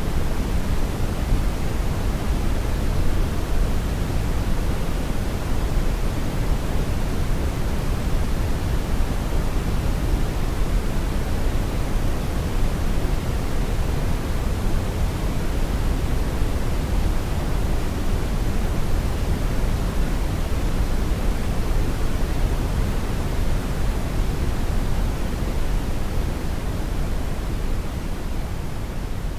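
Steady brown noise: an even, unbroken hiss weighted heavily toward the low end, beginning to fade out near the end.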